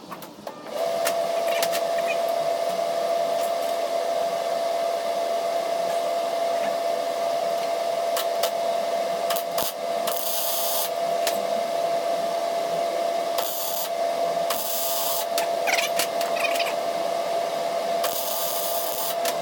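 Electric welder humming steadily from about a second in, with four short hissing bursts of arc, about a second each, as tack welds are struck on steel nuts and bar.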